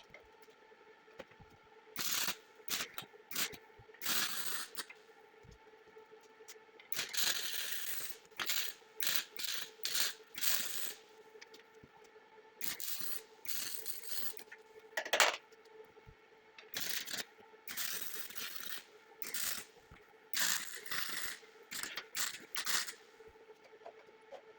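Metal being handled and worked in a sheet-metal workshop: a run of short, irregular scrapes and clanks, the loudest about fifteen seconds in, over a steady faint hum.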